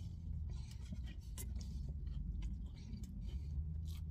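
A person chewing a mouthful of soft biscuit with buttery spread: irregular small mouth clicks and smacks over a steady low hum.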